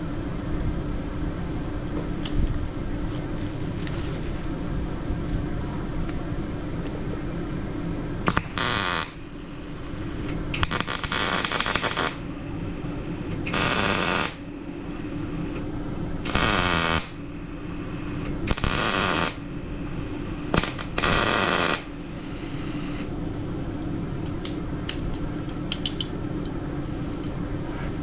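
Electric welder laying about six short welds, each burst lasting a second or so, over a steady hum. A small plate is being welded on to replace torn-out bolt mounts for the skid plate.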